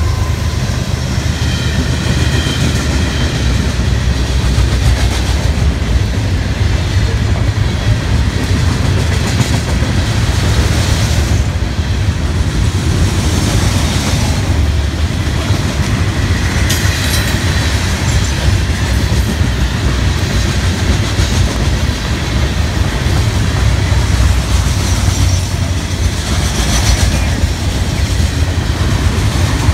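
Freight train of hopper and gondola cars rolling past close by: a steady low rumble of steel wheels on rail, with a few sharp clacks in the middle.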